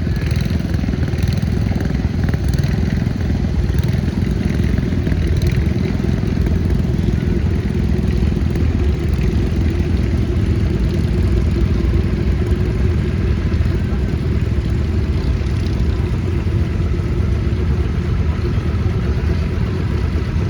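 Vintage farm tractor engine running steadily, a deep, even rumble throughout.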